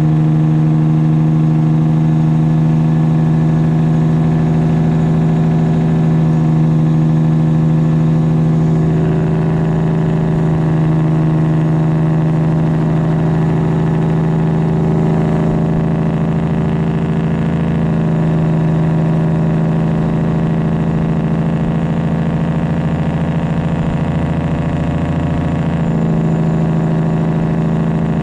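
Straight-piped Detroit Diesel 12.7 in a Freightliner Classic XL truck running under way, a loud steady drone through the open exhaust. Its note shifts slightly about a third of the way in and again near the end.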